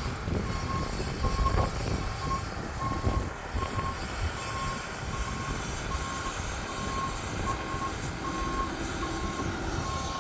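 Fire truck's reversing alarm beeping steadily, a little more than once a second: the truck is backing up. Its engine runs with a low rumble underneath.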